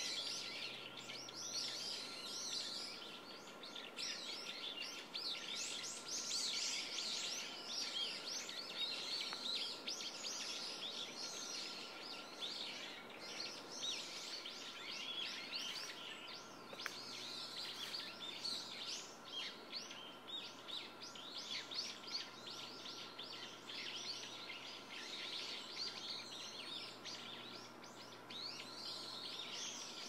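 Dense chorus of many small birds chirping and twittering without pause, calls overlapping, over a faint steady high tone.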